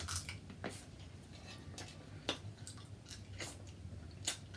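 Faint eating sounds from a seafood meal: about eight sharp, irregular clicks and small cracks of shells being handled and picked at, with chewing, over a low steady hum.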